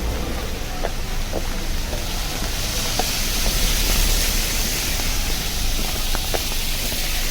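Steady rain hiss over a low rumble, the hiss swelling in the middle, with scattered small taps of drops.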